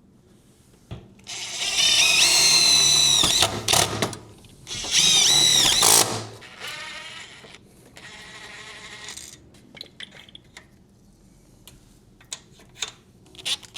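Power drill run in two loud bursts of a second or two each, its whine bending down in pitch as it slows, then a quieter run of about three seconds. Scattered light clicks follow near the end.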